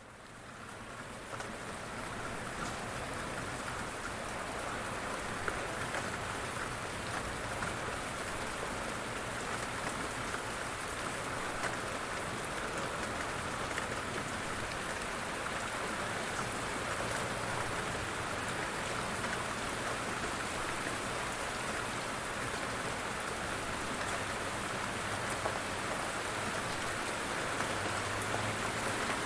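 Steady rain falling, fading in over the first second, with a low rumble growing near the end.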